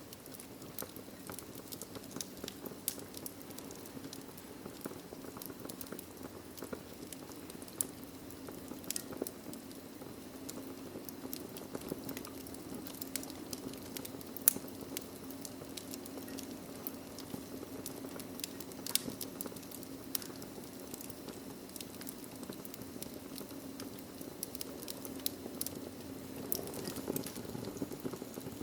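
Wood fire crackling in a fireplace: irregular sharp pops and snaps over a steady low rumble of the flames, with one louder pop about halfway through.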